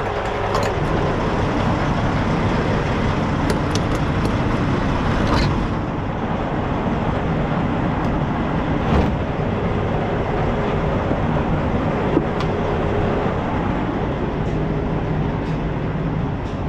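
Semi truck's diesel engine running steadily as the rig moves, with rumbling road and cab noise and a few brief clicks.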